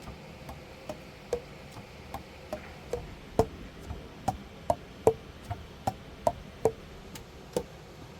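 Saxophone keys being worked, their pads clicking shut on the tone holes in a steady series about two and a half a second, each click a little different in pitch.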